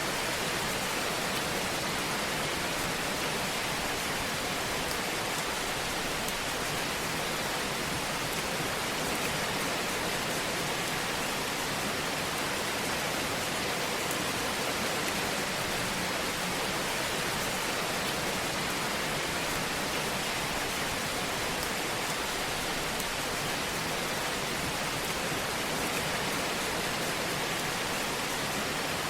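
Fire crackling in a fireplace: an even, continuous hiss of fine crackles that stays steady throughout.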